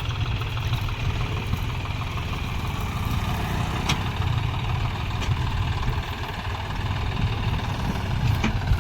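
Heavy farm machine's diesel engine running steadily, with a few sharp clicks over it.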